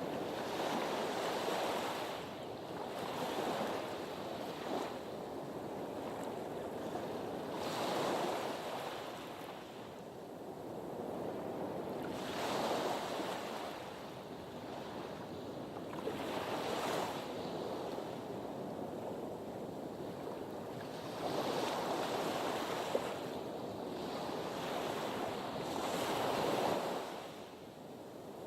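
Sea waves washing against a harbour breakwater, the surf swelling and falling back every few seconds.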